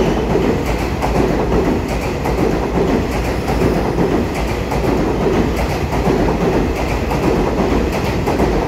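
Taiwan Railway EMU3000 electric multiple unit running along the platform: a steady rumble of wheels on rail, with a regular clickety-clack of the wheels over the rail joints.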